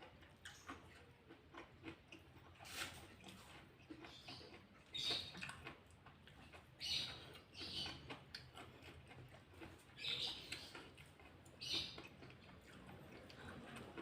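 Close-up mouth sounds of chewing and crunching food, in short crisp bursts every second or two.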